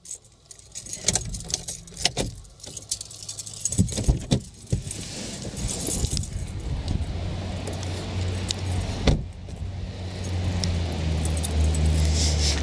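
Clicks and handling knocks, then wind buffeting the microphone: a steady low rumble that grows louder toward the end.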